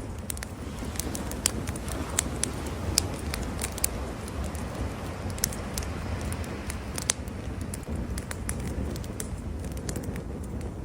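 Wood campfire crackling, with irregular sharp pops and snaps, a few louder than the rest, over a steady low rumble.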